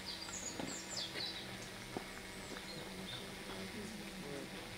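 Birds calling faintly in a few quick, high, downward-slurred notes, heard over a low steady hum.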